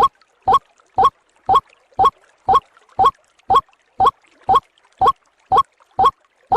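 White-breasted waterhen's (ruak-ruak) call played as a bird lure: one short, slightly rising note repeated at an even pace of about two a second.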